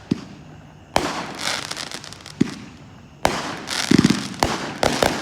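Multi-shot consumer firework cake firing its last shots: about six sharp reports, roughly one a second, each followed by a crackling tail, with a brief buzzing rattle near the middle.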